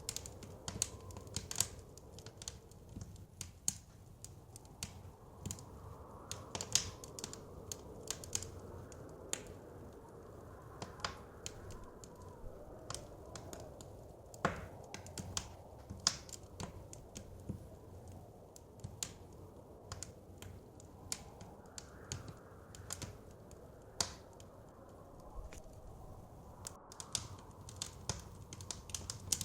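Wood fire crackling, with many irregular sharp pops and snaps, over a soft low whoosh of blizzard wind that slowly swells and fades.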